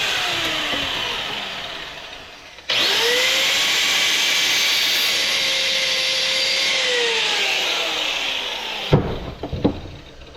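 Handheld electric power tool whirring at high speed, winding down with a falling pitch about two seconds in. It starts again abruptly and rises, runs steadily, then winds down again, and a few sharp knocks follow near the end.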